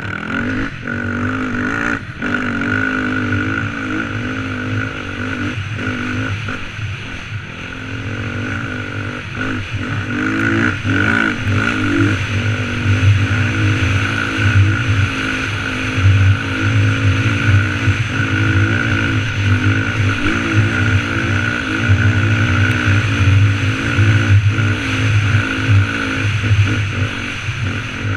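Dirt bike engine running on a trail ride, its note wavering up and down with the throttle, and a few short clattering knocks.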